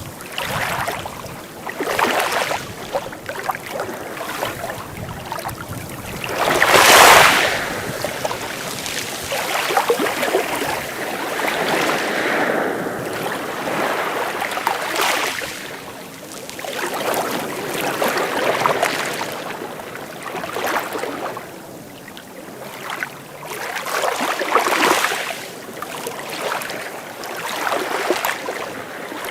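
Sea waves washing in and falling back in uneven surges, the loudest about seven seconds in.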